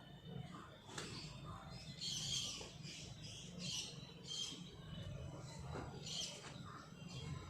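A small bird chirping repeatedly, short high calls about once a second, over a steady low hum.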